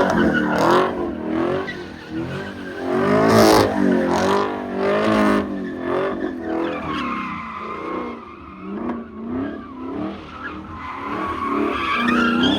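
Muscle car engine revving hard, its pitch rising and falling again and again, with tires squealing as the car spins its wheels and slides.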